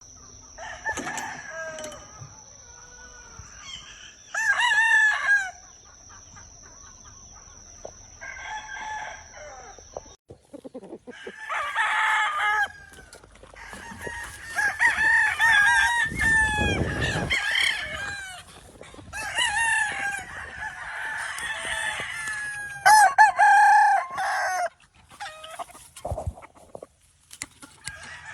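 Gamefowl roosters crowing again and again, about half a dozen loud crows with some clucking between them. A thin, steady high tone runs through roughly the first third.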